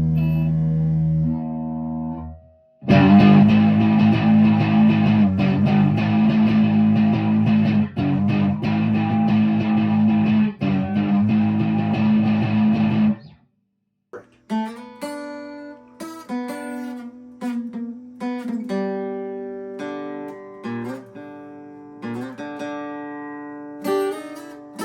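Guitar playing: a held chord rings, then about three seconds in a dense run of strummed chords that stops abruptly about thirteen seconds in. After a short pause come single picked notes and short melodic phrases.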